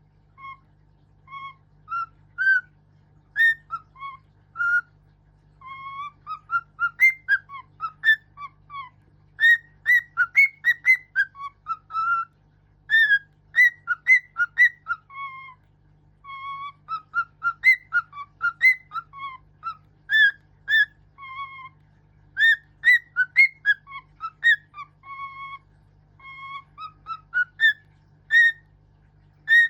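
A pet bird whistling a tune in runs of clear, rising and falling notes, phrase after phrase with short pauses between.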